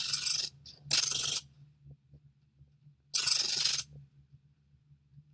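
Three short bursts of noise, each about half a second long: two close together at the start and a third about two seconds later, over a faint steady low hum.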